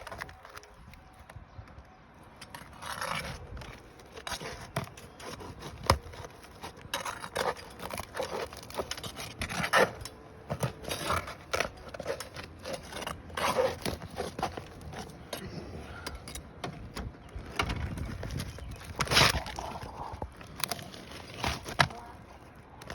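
Roofing shingles being pried up: irregular scraping and crackling with sharp cracks as the brittle shingles tear, a sign that they are too deteriorated to repair.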